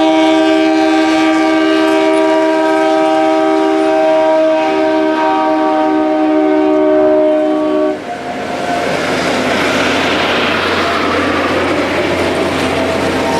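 Multi-note train horn held steadily for about eight seconds, then cut off. It is followed by a steady rushing noise over a low hum as the train works past.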